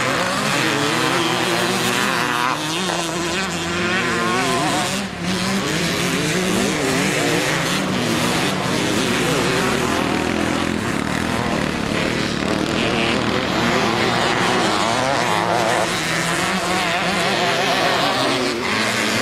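Several motocross bikes racing, their engines revving up and down and overlapping as they accelerate and back off around the track.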